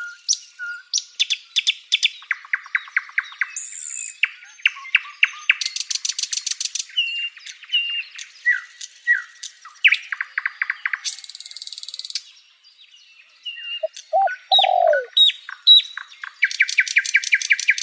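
Small songbirds singing: a busy run of fast trills, rapid chattering note series and short whistled slurs, with a brief lower downward-sliding call about two-thirds of the way through.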